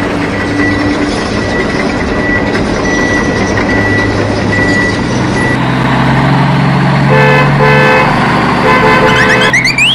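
A motor vehicle's engine runs steadily. A horn toots in short blasts several times in the last few seconds, and a quick rising glide follows at the very end.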